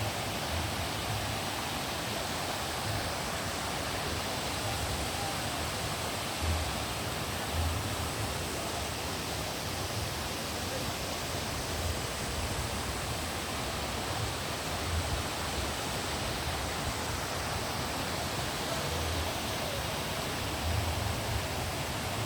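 Steady rush of falling water from a park waterfall, an even hiss without change, with a few brief low bumps scattered through it.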